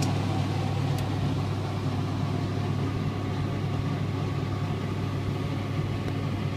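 Steady low mechanical hum with a short click about a second in.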